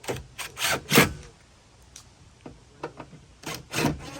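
Short scrapes and knocks of parts being handled inside a car door, in two quick clusters, one at the start and one near the end.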